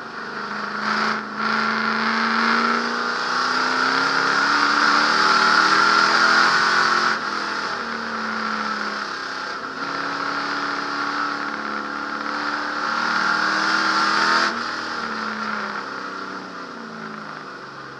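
Ford 427 big-block V8 of a 1963 Galaxie race car heard from inside the cabin, revving up hard with its pitch climbing for several seconds. It falls away about seven seconds in, climbs again, then drops sharply about fourteen seconds in and runs lower and quieter.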